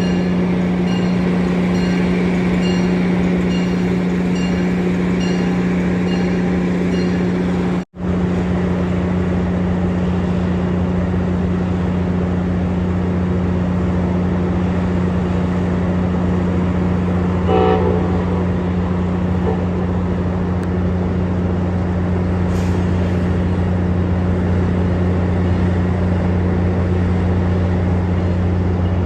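Train running past with a steady, deep engine drone. A bell dings about one and a half times a second for the first eight seconds, and a short horn toot sounds about halfway through.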